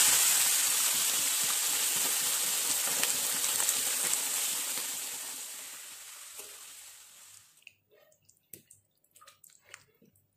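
Duck pieces and sliced ginger sizzling in hot oil in a wok as they are stirred with a spatula. The sizzle starts loud and dies down over about seven seconds, then cuts off abruptly, leaving a few faint clicks and taps.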